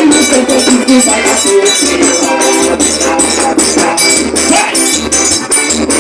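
Live forró band playing an instrumental passage: a sustained melody over a steady, quick beat of jingling, shaker-like percussion, about four strokes a second.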